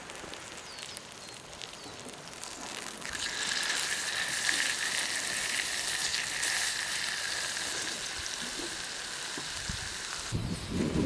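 Food sizzling on a Yokozawa Teppan iron plate: a chicken steak frying, with a steady crackling hiss that swells about three seconds in and cuts off suddenly near the end, where a few low knocks follow.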